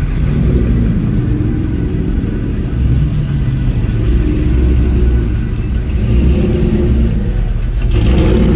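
Loud car engine running and revving, with a broader rush of noise joining in near the end.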